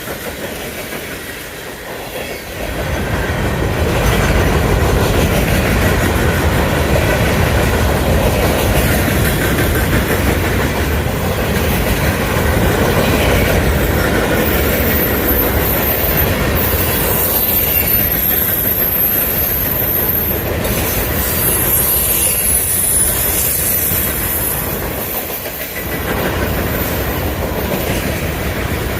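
Freight train cars rolling past, with a steady rumble and wheels clacking over rail joints, louder from about three seconds in. Through the middle stretch there is a thin high wheel squeal lasting several seconds.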